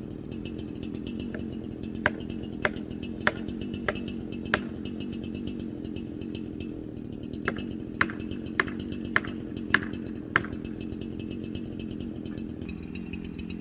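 Chainsaw idling steadily. Two runs of sharp knocks, about 0.6 s apart, cut through it: five a couple of seconds in, then six more a few seconds later.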